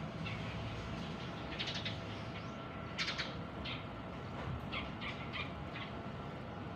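Small birds chirping: a scatter of short, high chirps, the loudest about three seconds in, over a steady background hum.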